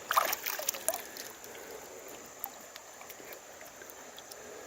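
Creek water splashing and sloshing in a quick cluster during the first second, as a stone is handled in the water, then the steady faint trickle of the flowing creek.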